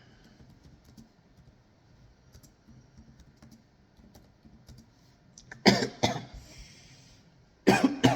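Light, scattered clicks of typing on a keyboard, then two loud coughs, the first about two-thirds of the way through and the second near the end.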